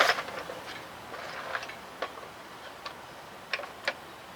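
Light, scattered clicks and taps of small carburetor parts being handled, about seven over a few seconds, after a brief hiss right at the start.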